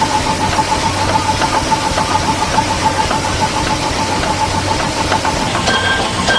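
Steam engine running with a steady hiss and a quick, even pulsing beat. A run of short, evenly spaced high tones starts near the end.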